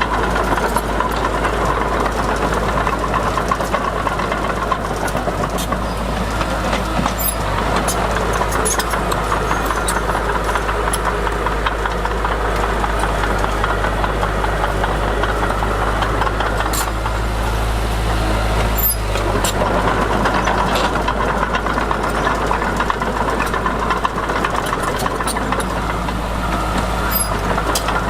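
Heavy diesel engine of earthmoving machinery running steadily under work, a strong low rumble with scattered sharp clanks and rattles.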